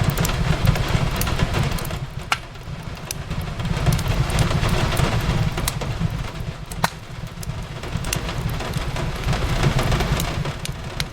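Fireplace crackling, with scattered sharp pops, two of them louder about two seconds in and near seven seconds, over a steady hiss of rain on a window and a deep low rumble.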